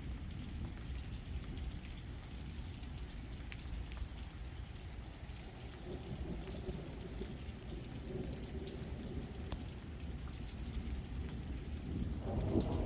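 Rain falling in a thunderstorm with a low, steady rumble underneath. About twelve seconds in, a louder roll of thunder starts to build.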